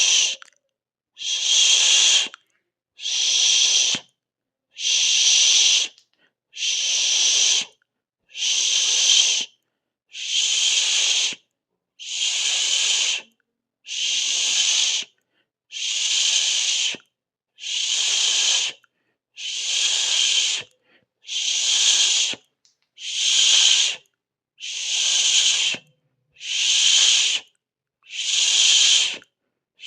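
A person hissing a long 'sss' through the teeth, each hiss lasting about a second and a half, repeated about every two seconds with short silences between.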